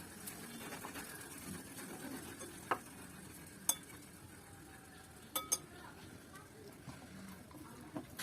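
Dishware clinking about five times, sharp and brief, over soft low eating and mixing noise, as a meal of rice and curry is eaten from a plate.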